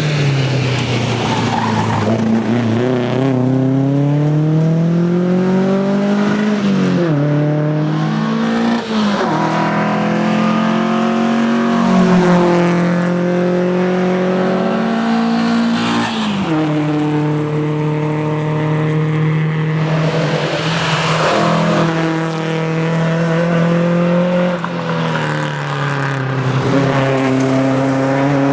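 1961 Volvo 122S rally car's four-cylinder engine driven hard, its pitch climbing under throttle and dropping sharply several times as it shifts gear or lifts off.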